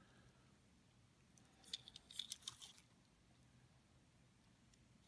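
Near silence with a few faint, brief clicks and light rustling about two seconds in: small diecast toy cars being handled.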